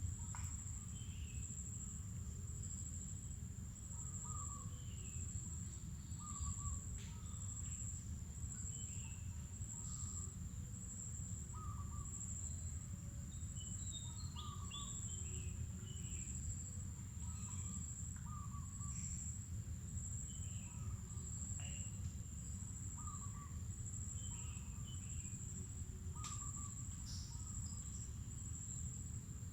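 Mangrove forest dawn ambience: a steady high-pitched insect drone, with a bird repeating a short call about every two seconds and other birds chirping now and then. A steady low rumble sits underneath.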